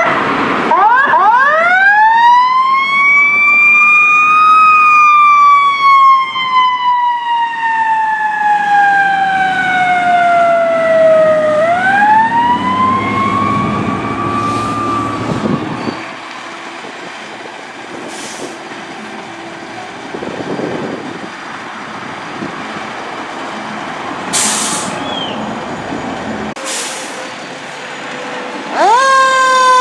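Fire engine siren winding up and slowly winding down twice, then a fast electronic yelp that starts near the end, with a few short hisses from the trucks in between.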